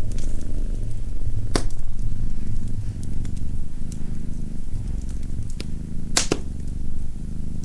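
Domestic cat purring steadily close up, over a wood fire crackling with small pops. Two louder sharp snaps from the fire come about a second and a half in and about six seconds in.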